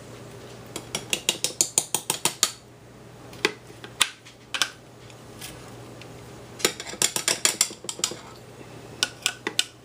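A spoon clicking and scraping against a container in quick runs of sharp clicks while ice cream is scooped out to be tasted.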